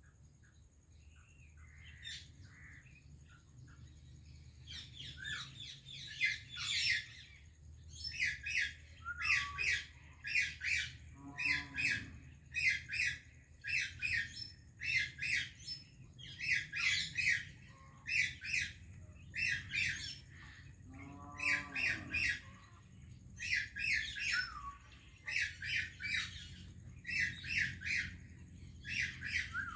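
Pet parakeets squawking: harsh, shrill calls in quick runs of several, repeated over and over from a few seconds in. Twice a lower call glides downward in pitch.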